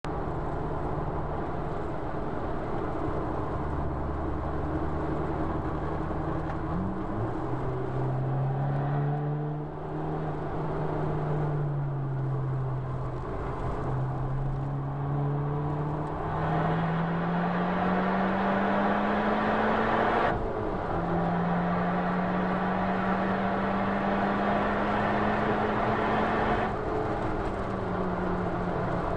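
Honda Civic Type R FK2's turbocharged 2.0-litre four-cylinder engine under hard driving, heard from inside the cabin over steady tyre and road noise. The engine note climbs slowly and falls, and drops sharply about 20 seconds in and again near the end.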